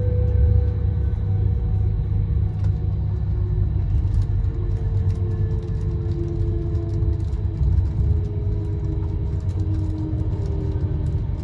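A train running, with a steady low rumble and a faint whine that slowly falls in pitch.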